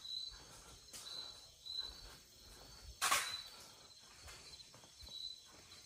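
Faint outdoor background with an insect chirping in short, high pulses about once a second, and a brief burst of noise about three seconds in.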